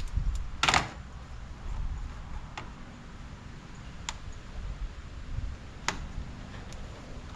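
Plastic clicks and snaps of push-pin trim clips and the intake air scoop being pried loose, with one louder snap about a second in and a few lighter ticks after it.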